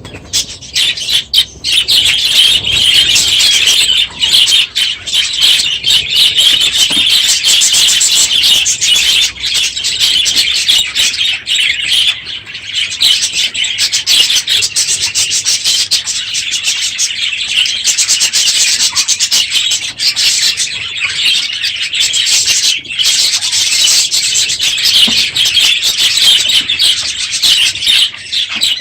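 A crowded aviary flock of budgerigars chattering and chirping loudly and without pause, many birds calling over one another.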